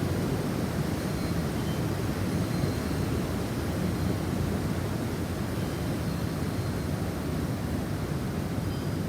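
Snowstorm wind blowing steadily with a deep rumble, and a few faint, brief high wind-chime tones.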